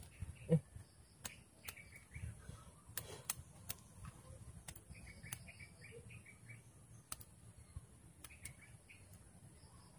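Faint bird chirping in short runs of quick notes, with scattered small sharp clicks and taps from hands working a fishing line and hook.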